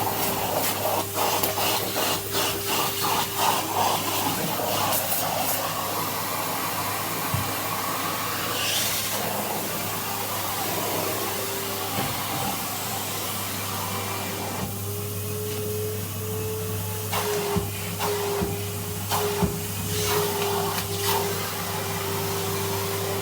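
Vacuum cleaner running with its brush attachment, a steady motor hum whose pitch rises slightly and wavers about fifteen seconds in. Scattered clicks and knocks run through it as debris is picked up.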